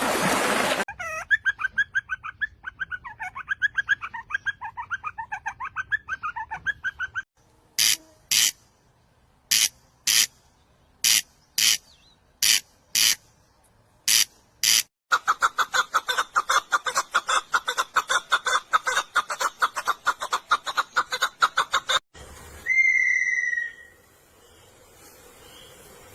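A sequence of different bird sounds. First come rapid chattering calls, then a series of short hissing bursts in pairs with pauses between, then a fast rattling trill, and finally a few clear gliding whistles.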